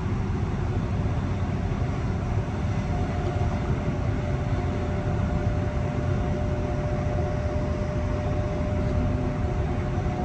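Mariyung D set electric train running: a steady rumble of running noise, with a faint steady whine joining about three seconds in.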